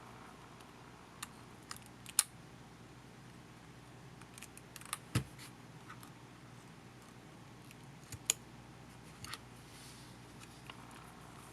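Scattered small clicks and taps of plastic and metal camcorder parts and small tools being handled while the camera is taken apart, with a few louder knocks about two, five and eight seconds in.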